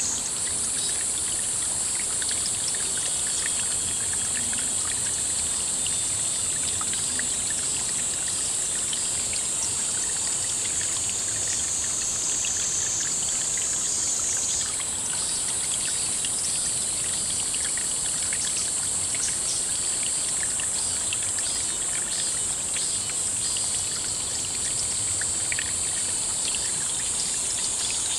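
A steady, high-pitched chorus of insects, with a shift in its pitch about halfway through, over running, trickling water.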